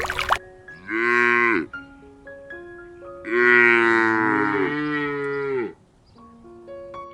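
A cow mooing twice: a short moo about a second in, then a longer, louder moo. A soft melody of short notes plays underneath.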